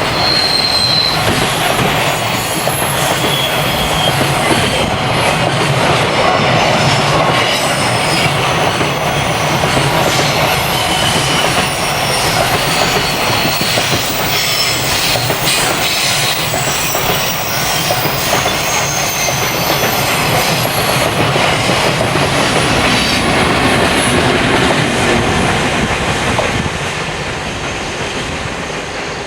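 Train running along the track, a dense steady rumble and rattle with short high-pitched wheel squeals coming and going; it eases off slightly near the end.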